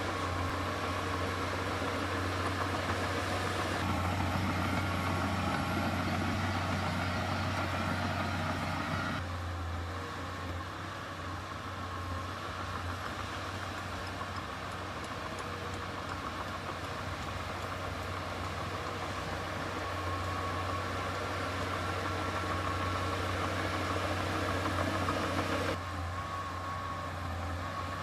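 Heavy earthmoving machinery's diesel engine running steadily with a low hum; the sound drops a little about nine seconds in and shifts again near the end.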